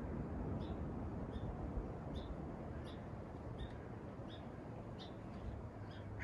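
A small bird repeating one short, high chirp about every two-thirds of a second, over a steady low outdoor rumble.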